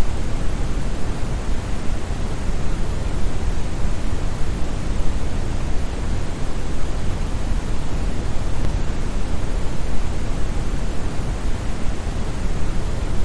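Steady brown noise: an even, deep rushing hiss, heaviest in the bass and softer in the treble, like a large waterfall heard through headphones.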